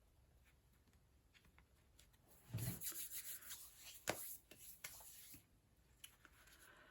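Paper and card pieces being handled and rubbed, rustling for about three seconds, with a sharp click partway through.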